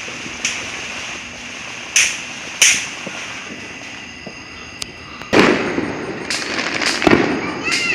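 Fireworks going off: a few sharp bangs in the first three seconds, then louder booms with a rumbling tail from about five seconds in.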